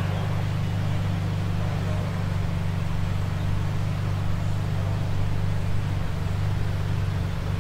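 Brabus 850 S63 AMG's 6.0-litre twin-turbo V8 idling steadily at a low, even pitch.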